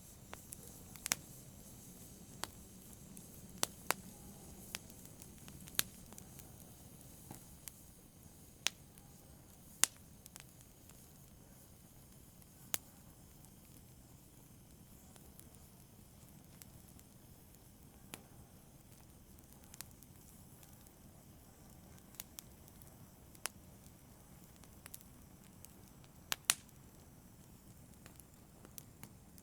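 Wood fire crackling softly: irregular sharp pops and snaps, a little under one a second, over a faint steady hiss of burning.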